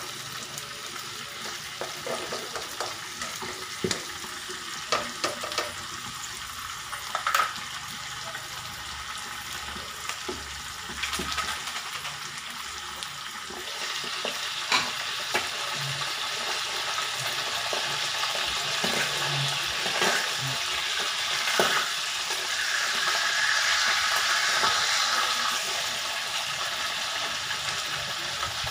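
Tofu, onion, ginger and garlic frying in oil in a wok: a steady sizzle that grows louder about halfway through. A few spatula scrapes and taps against the pan stop after about eight seconds.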